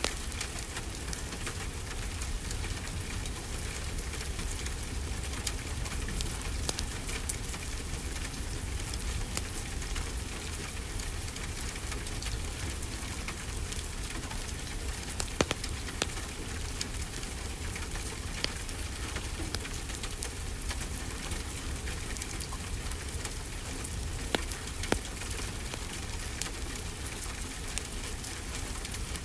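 Steady rainfall mixed with a crackling fireplace fire, with a few sharp pops standing out from the hiss; the loudest pop comes about halfway through.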